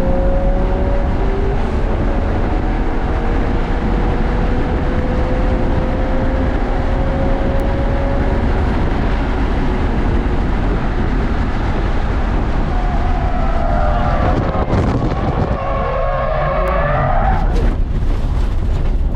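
Race cars running on a road course, their engines heard at a distance over a steady low rumble. One engine note climbs slowly in pitch through the first half. Near the end a louder engine note rises and falls as a car goes by.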